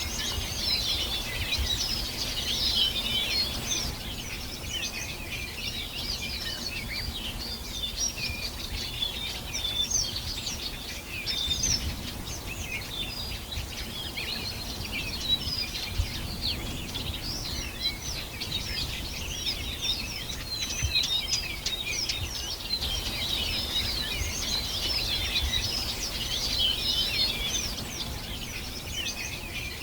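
Many small birds chirping and singing together, a dense, continuous chorus of short, high twittering notes with no single bird standing out, over a faint low rumble.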